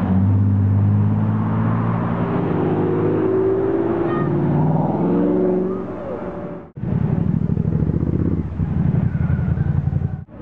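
Spyker C8 Aileron's V8 accelerating away, its pitch rising, dropping once at a gear change, then rising again. After a cut, the engine runs close by with an even, lumpy low pulse.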